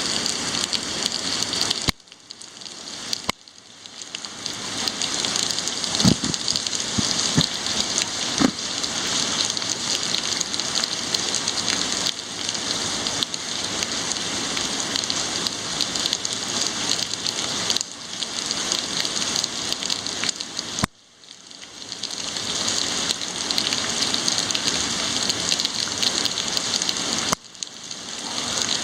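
Heavy rain falling in a steady hiss. It drops away abruptly a few times and builds back up over a second or two.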